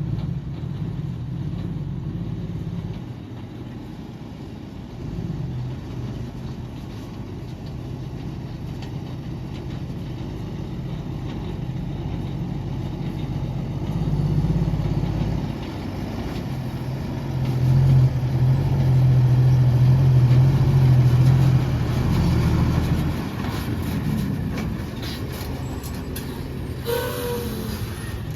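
Heavy diesel engines of earth-moving machines (excavator and dump trucks) running, the engine note rising and falling under load and loudest about two-thirds of the way through.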